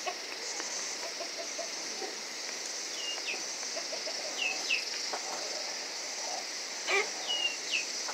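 A bird calling: pairs of short, falling whistled notes repeated three times, over a steady high hiss. A brief louder sound comes about seven seconds in.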